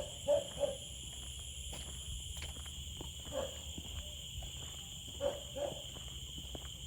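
Outdoor animal sounds: short low calls in quick twos and threes, a few seconds apart, over a steady high-pitched drone and a low rumble.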